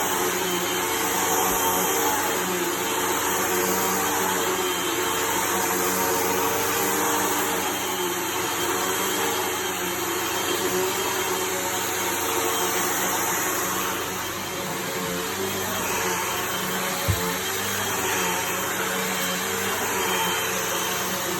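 Hoover vacuum cleaner running steadily, a constant motor hum with a few held tones over a rushing air sound. There is a single sharp knock about seventeen seconds in.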